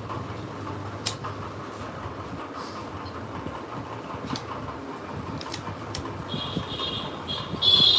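Steady background noise with a few sharp metallic clicks, then a high squeal from about six seconds in that grows loudest just before the end.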